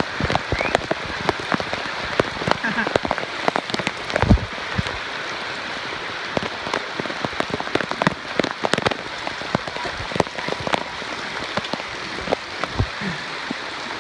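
Steady rain falling, with many sharp, irregular taps of drops striking close by.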